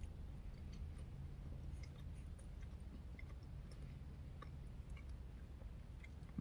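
Faint chewing of a mouthful of baked fried chicken with the mouth closed: soft, scattered mouth clicks over a low steady hum.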